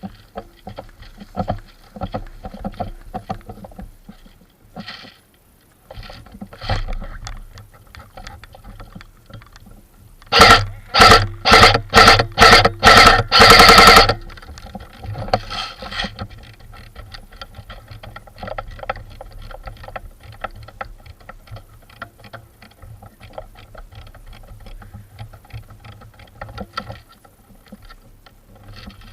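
An airsoft rifle fires about ten loud shots in quick succession, about three a second, ending in a short continuous burst. Before and after, there is rustling and scuffing from movement through woodland undergrowth.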